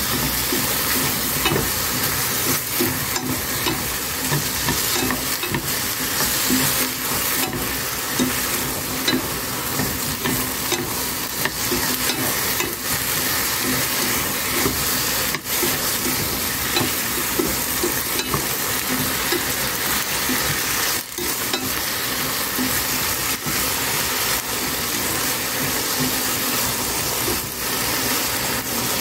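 Sliced eggplant sizzling steadily in hot oil and sauce in a nonstick pot while wooden chopsticks stir and toss the pieces.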